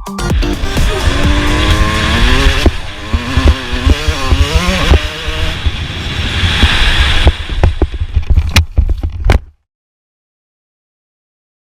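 Motocross bike engines revving, the pitch rising and falling with the throttle. The sound cuts off suddenly into silence near the end.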